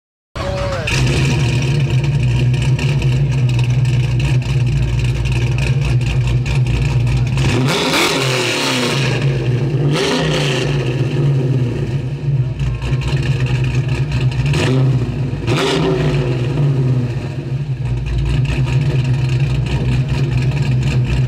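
A car engine running with a steady low hum, revved briefly three times: about eight, ten and fifteen seconds in.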